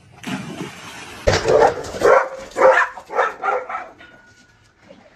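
A dog barking, a quick run of about six short barks that stops about four seconds in.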